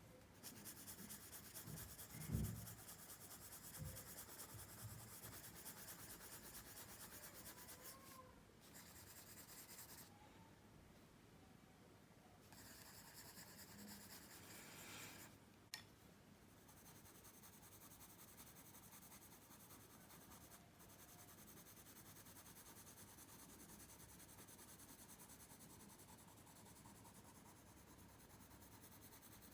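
Pencil shading on paper: quick, repeated scratchy strokes, faint and steady, stopping briefly a few times. A low thump about two seconds in and a small click later on.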